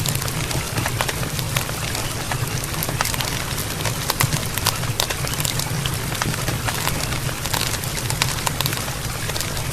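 Campfire crackling: many small sharp snaps and pops scattered over a steady low rumble.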